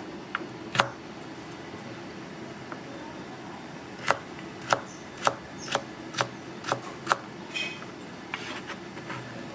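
Knife chopping on a cutting board, over steady kitchen background noise. There is a single chop about a second in, then a run of about seven chops, roughly two a second, from about four seconds in.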